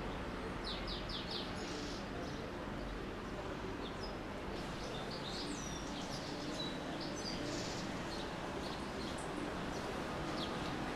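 Birds chirping in short runs every few seconds over a steady background of neighbourhood noise.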